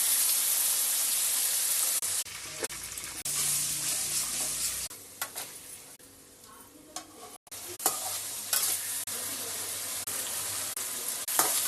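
Food frying in hot oil in a pan, sizzling loudly in stretches, with a spoon clicking and scraping against the pan as it is stirred in the quieter stretches between.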